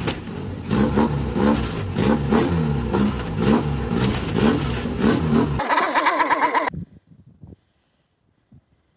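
Car engine revving hard in quick repeated blips, its pitch rising and falling over and over. After about five and a half seconds it gives way to a higher wavering sound lasting about a second, which cuts off suddenly.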